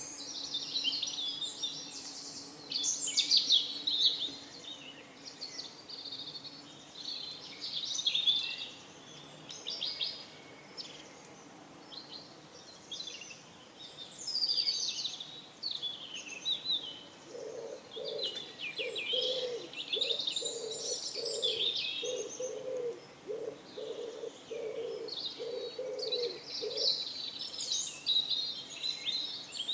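Small birds chirping and twittering in quick, high calls throughout. Over the second half, a pigeon coos in a run of low, evenly spaced notes, about two a second, for roughly ten seconds.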